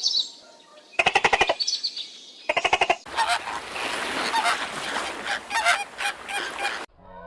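Animal calls: three short, harsh rattling calls in the first three seconds, then about four seconds of noisier, scratchy calling that stops abruptly.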